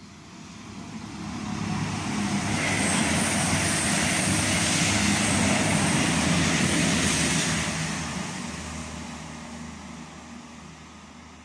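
Electric passenger train passing through the station at speed: a rumble with wheel-on-rail noise and a high hiss. It builds over the first couple of seconds, holds for about five seconds as the train goes by, then fades away as it recedes.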